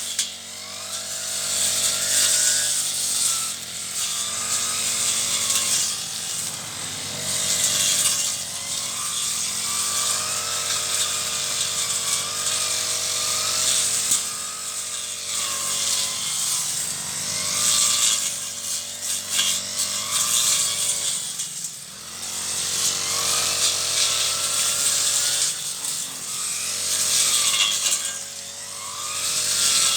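Petrol brush cutter engine running under load while cutting weeds, its revs rising and falling every few seconds as the blade or line works through the growth.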